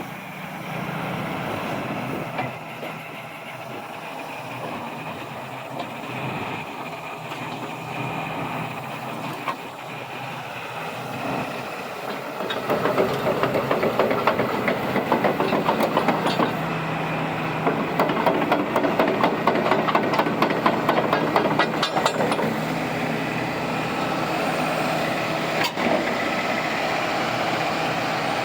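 Hitachi ZX250LC-6 crawler excavator's diesel engine running steadily. About halfway through it gets louder for some ten seconds, with a rapid metallic clatter over it, then settles back to a steady run.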